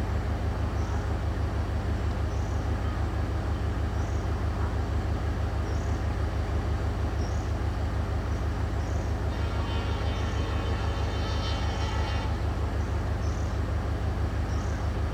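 Diesel train engine idling with a steady low throb. About nine seconds in, a train horn sounds for about three seconds.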